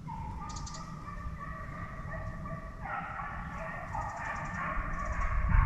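Hunting hounds baying on a deer drive, several long overlapping cries: one dog opens, and more join in about three seconds in. A low rumble, like wind on the microphone, runs underneath.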